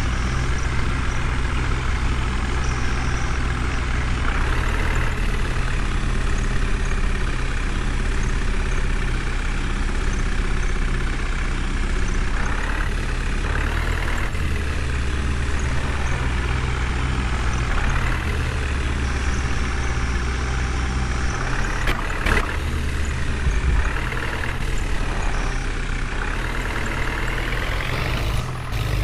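Heavy diesel machinery, a JCB backhoe loader working beside a tractor, running steadily with a low engine hum. The engine noise swells briefly every few seconds.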